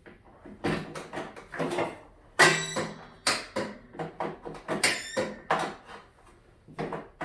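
Starter solenoid on a Yard Machines riding mower giving a string of short squeals and whines as the key is tried, with the loudest two about 2.5 and 5 seconds in. The solenoid is not doing what it should, and the mechanic suspects it needs replacing.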